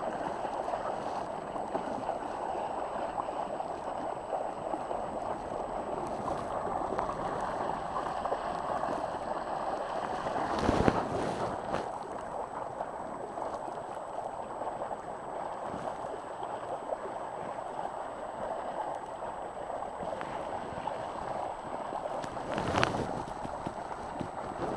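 Water rushing and gurgling steadily along the hull of a small sailing boat under way. Two brief knocks sound, about halfway through and again near the end.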